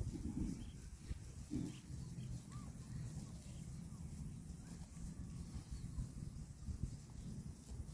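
Cow grazing, tearing and chewing grass, faint and irregular.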